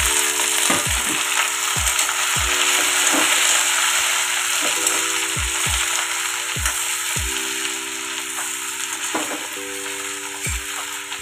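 Chopped okra and green chillies sizzling loudly in hot oil in a kadhai as they are stirred with a steel spoon; the sizzle eases gradually as the vegetables take the heat.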